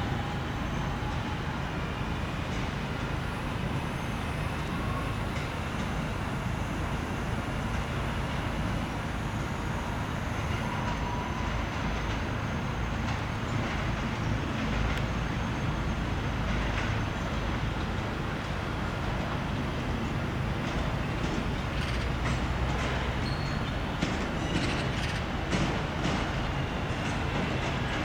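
Class 323 electric multiple unit running through the station: a steady rumble of wheels on rail, with a run of sharp wheel clicks over the rail joints in the last third.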